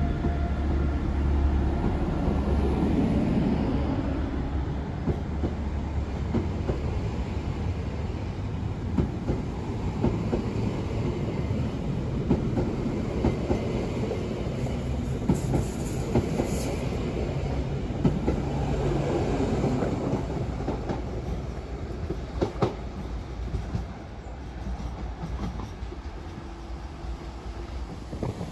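Married-pair passenger coaches of a loco-hauled regional train rolling past, wheels clicking over rail joints over a steady rumble that slowly fades.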